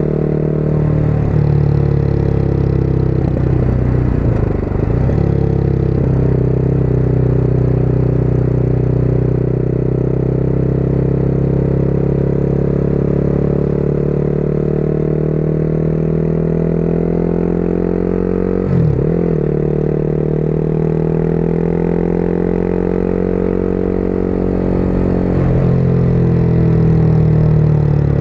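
Motorcycle engine running at road speed, its pitch slowly rising and falling with throttle, with a few brief breaks in the note.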